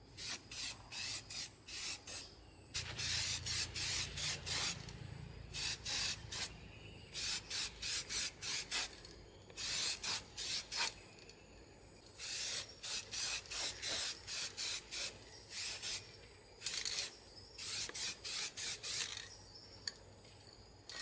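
Quick hand rubbing or scraping strokes, each short, coming in runs of several with brief pauses between.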